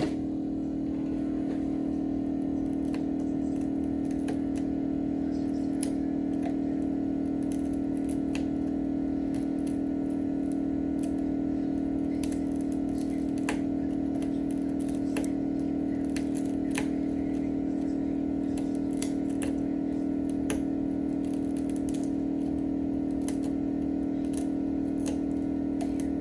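Steady low hum of a small machine or electrical equipment running throughout, with scattered light clicks and taps on top.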